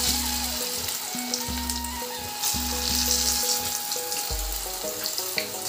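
Slices of patrode (colocasia-leaf rolls) sizzling as they are slid into hot oil in a kadhai and start to fry. The sizzle grows louder about two and a half seconds in, over background music.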